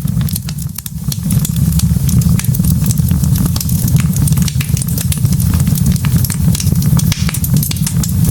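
Wood logs burning in a fireplace, crackling with frequent small sharp pops over a steady low rumble of the flames.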